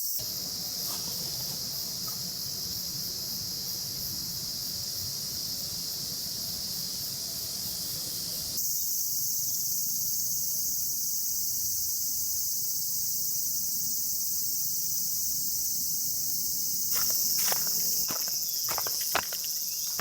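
Steady high-pitched chorus of summer insects chirring, growing louder about eight seconds in. A few short knocks, like footsteps or handling, come near the end.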